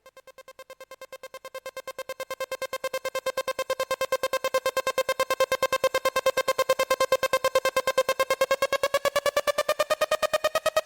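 Electronic music: a single rapidly pulsing synthesizer tone that fades in over the first few seconds and holds steady. Its pitch slowly rises near the end.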